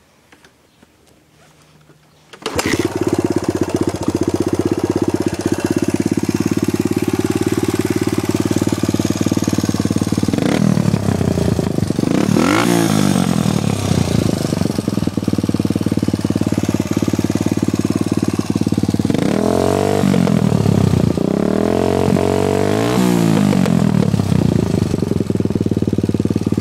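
Suzuki DR-Z125 dirt bike's single-cylinder four-stroke engine, breathing through an aftermarket BBR exhaust, starts suddenly about two and a half seconds in and settles to a steady idle. It is revved up and let fall back several times, once or twice near the middle and twice more toward the end.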